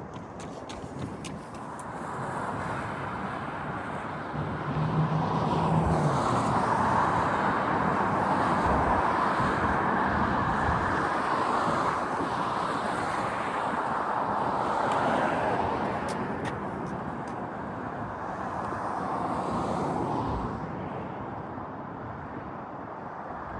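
Street traffic: cars passing on a city road, the tyre and engine noise swelling for about ten seconds and easing off, then swelling briefly again before fading.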